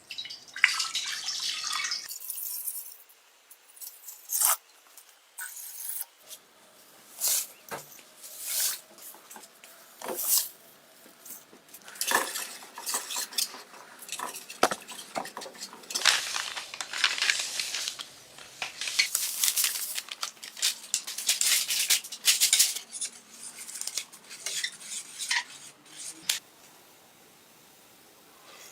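Small metal pistol parts being handled and worked on: sharp clicks and clinks of metal on metal, mixed with short scratchy scraping or scrubbing strokes.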